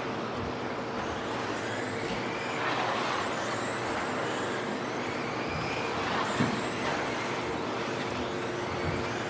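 Several electric 1/10 2WD stadium trucks with 13.5-turn brushless motors racing on a dirt track, their motors whining high and rising and falling in pitch as they accelerate and slow. A steady low hum runs underneath, and there is a short knock about six seconds in.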